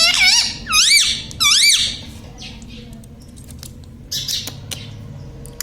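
Indian ring-necked parakeet squawking: three loud, shrill calls in quick succession in the first two seconds, each rising then falling in pitch. A quieter stretch follows with a brief scratchy rustle and a few small clicks.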